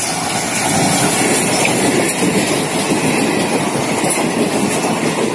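Passenger train running through a station at speed: a loud, steady rush of wheels and coaches over the rails, with occasional knocks from the rail joints.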